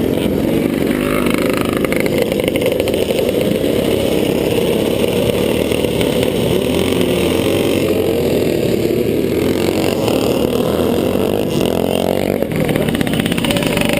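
Vintage motocross motorcycle engine running hard, loud and unbroken, as heard from a camera mounted on the racing bike.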